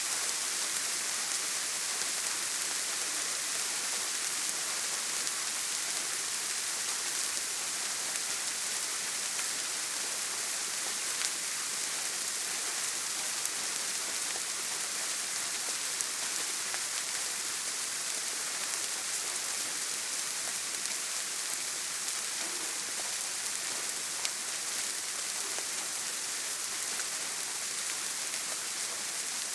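Steady heavy rain on a tin roof: a dense, even hiss with a few sharper single drop ticks.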